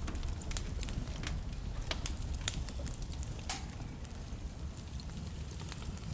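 Wood fire burning in a fireplace: burning logs crackling and popping in irregular sharp snaps over a steady low rumble of the flames, the pops thicker in the first half.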